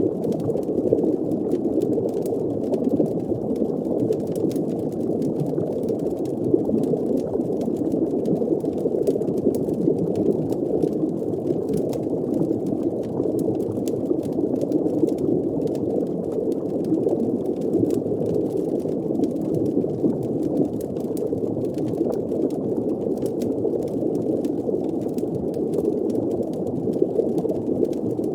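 Steady, muffled underwater ambience: a low, even rush of water with a bubbling, boiling-like texture, and faint crackling clicks of a fire throughout.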